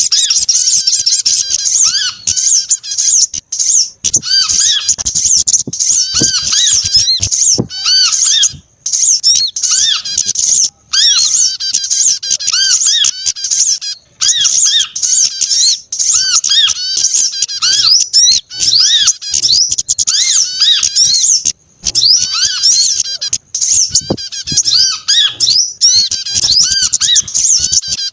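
Several small songbirds calling at once in a dense, rapid stream of high-pitched chirps and twitters, with a repeated lower arched note beneath, broken by only a few brief pauses. It is a mixed bird-lure call recording of small birds, meant to draw other small birds in.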